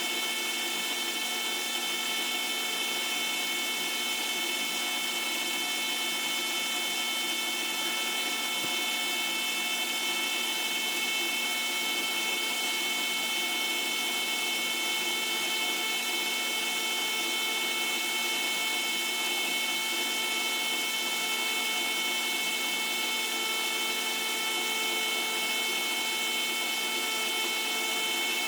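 Small electric flush pump running steadily, circulating vinegar through a tankless water heater to descale it. It makes a constant whine over a steady hiss.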